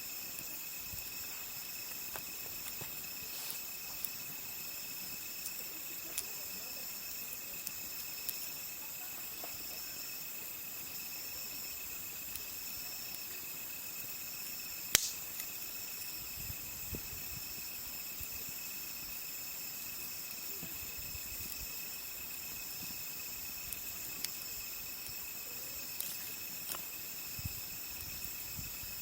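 Crickets trilling steadily at several high pitches, over a wood campfire crackling with scattered sharp pops and one loud snap about halfway through.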